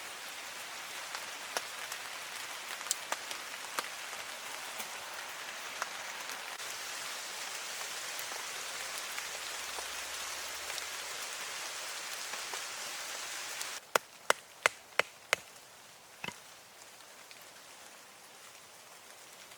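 Steady rain falling, with scattered louder drops. About fourteen seconds in, the rain sound drops away abruptly and five sharp knocks follow in quick succession, then one more.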